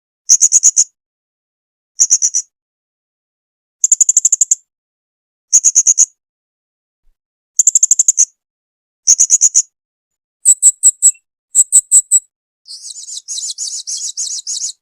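Blue-crowned hanging parrot (serindit) calling: short bursts of rapid, high-pitched chattering notes about every one and a half to two seconds. Near the end come a few sharper, higher notes and then a longer buzzy trill that cuts off suddenly.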